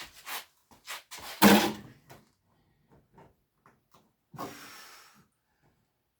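Workshop handling noise: a run of knocks and clatter from parts and tools being picked up and set down, the loudest knock about a second and a half in, then a short scrape or rustle near the end.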